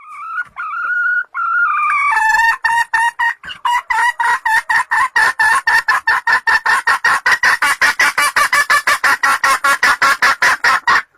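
Junglefowl lure call: a drawn-out, wavering call, then from about two seconds in a long, fast run of short clucking notes at about five a second that stops abruptly near the end.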